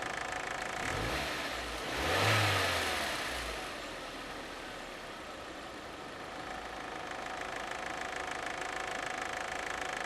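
VW Passat 1.8T turbocharged four-cylinder engine idling, blipped twice about one and two seconds in, the second rev higher, then settling back to a steady idle. The engine noise is the one the owner traced to a failing cam chain tensioner.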